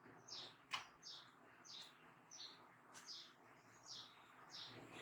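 A small bird chirps repeatedly in the background, short high chirps that fall in pitch, about two a second. Two faint sharp clicks come about a second in and again near the middle.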